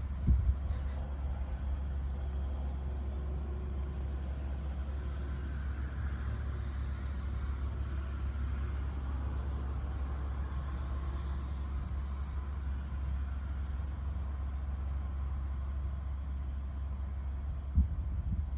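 Crickets or other insects chirping in a steady, evenly pulsing chorus over a constant low rumble, with a brief bump just after the start and another near the end.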